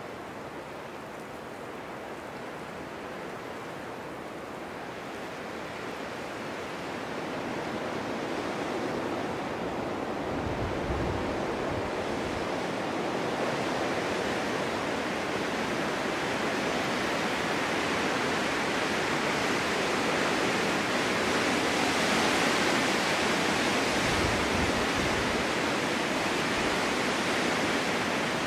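Snowstorm wind blowing steadily through a forest, building gradually louder over the first half and then holding strong, with two brief low rumbles of gusts.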